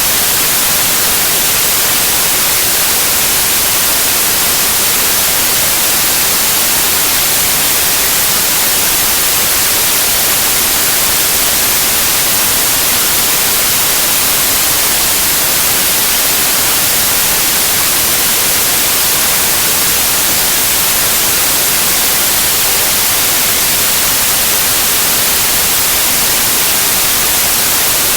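Steady white noise: an even, unbroken hiss, brightest in the high treble, with no change in level.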